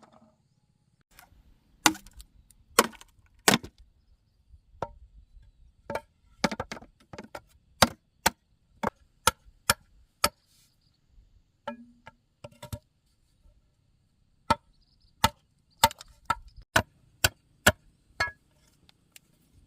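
A blade chopping into wood: about twenty sharp strikes, irregular, sometimes two a second, with short pauses between runs.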